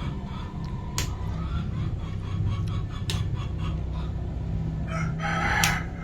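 A rooster crowing near the end, over a steady low hum, with a couple of sharp clicks earlier on.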